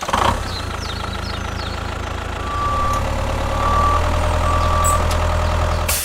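Heavy truck engine running steadily, getting louder about two and a half seconds in, with three short beeps of a reversing alarm about a second apart. The sound starts and cuts off abruptly.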